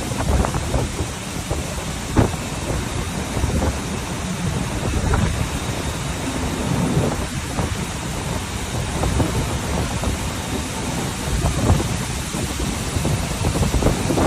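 Strong wind blowing hard against the microphone: a steady heavy noise, deepest at the bottom, with short sharp buffets every few seconds.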